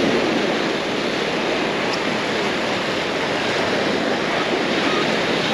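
Surf washing onto a sandy beach: a steady wash of wave noise.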